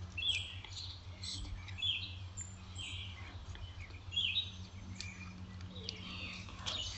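A bird chirping repeatedly, short high calls roughly once a second, over a steady low hum.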